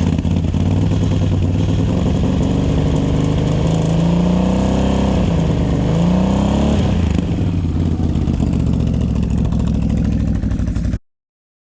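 Honda Rancher 420 ATV engine running under throttle, revving up twice in the middle and easing back. The sound cuts off suddenly near the end.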